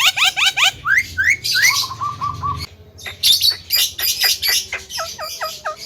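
Javan myna (jalak kebo) singing a varied, rapid string of calls: quick rising chirps at first, a few rising whistles, a short pause about three seconds in, then a harsh chattering run and a series of repeated short notes.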